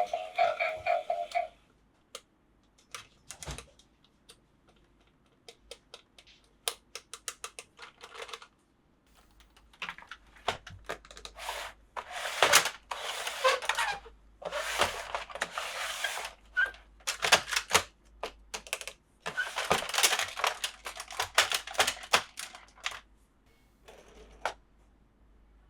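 Plastic toy parts and packaging being handled in an unboxing: scattered sharp clicks and taps, with several longer stretches of rustling or crinkling of a second or two each. Music stops about a second in.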